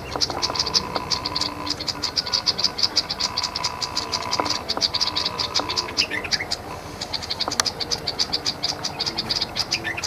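A rapid, even train of high-pitched rattling calls, about five or six a second, with a short falling bird call about six seconds in.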